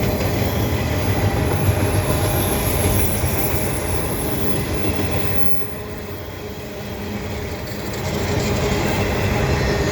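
Freight cars of a CN mixed freight train, mostly gondolas loaded with scrap metal, rolling past: a steady rumble of steel wheels on the rails with a faint high wheel squeal. It drops quieter for a couple of seconds past the middle, then builds again.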